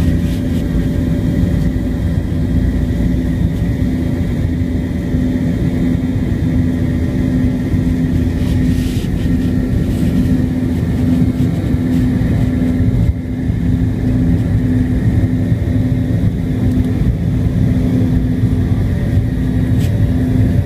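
Jet airliner engines and airflow heard from inside the passenger cabin: a loud, steady low rumble with a constant hum and a faint high whine over it.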